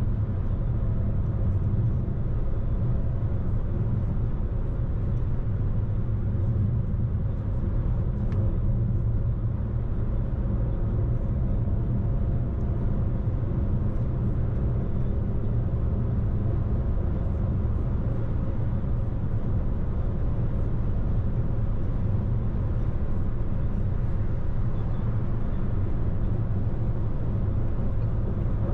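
Steady low rumble of a car driving along a road: engine and tyre noise that hold even throughout.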